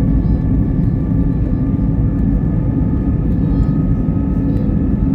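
Jet airliner's engines running steadily, heard from inside the passenger cabin: a loud, even rumble with a few faint steady whining tones above it.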